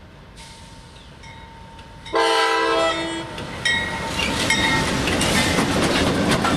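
Diesel freight locomotive air horn sounding one short, loud blast about two seconds in. From about a second later, the locomotives and freight cars passing close by make a loud, steady noise of engines and wheels on the rails.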